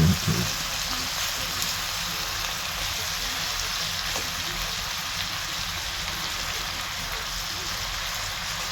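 Onions and garlic sizzling steadily as they sauté in a pan.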